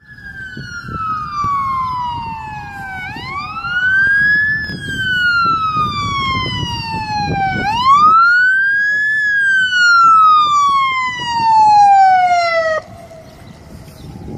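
Emergency vehicle siren sounding a slow wail, sweeping slowly down and then quickly back up, three times, over a low engine and road rumble. It cuts off suddenly near the end, leaving a fainter second siren still wailing.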